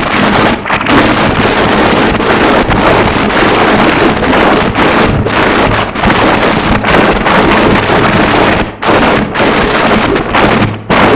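Harsh noise wall: a loud, dense wall of noise filling every pitch, jittering in level with a few brief dropouts, the deepest a little before 9 s and near the end.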